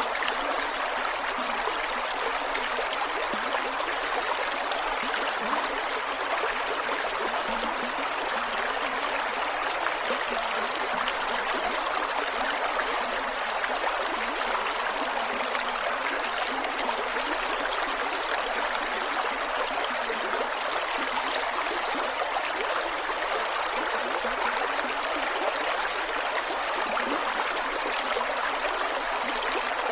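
A small creek flowing over rocks, running water with steady gurgling.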